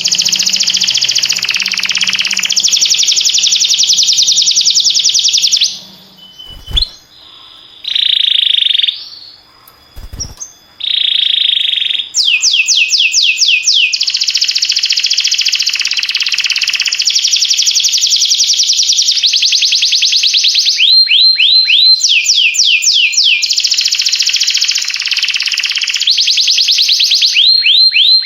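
Canary singing: long runs of fast trills, each built of rapidly repeated sweeping notes. About six seconds in the song breaks off for several seconds, leaving only two short notes and two brief low thumps, then the trills resume.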